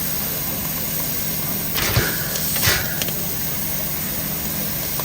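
Locomotive running steadily at standstill, a constant mechanical hum, with two short bursts of hiss about two seconds in and again half a second later.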